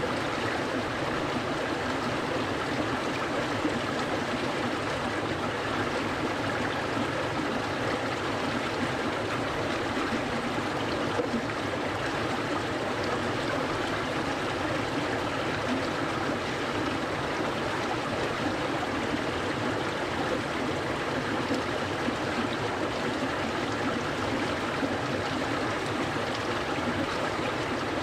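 A clear stream of cold water flowing steadily, an even, continuous rush and burble of water that does not change.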